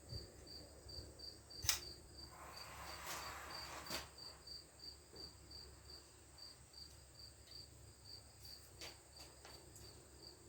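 Faint, steady chirping of a cricket, about three high chirps a second. A sharp click comes about two seconds in, then a brief soft scraping sound that ends with another click near four seconds.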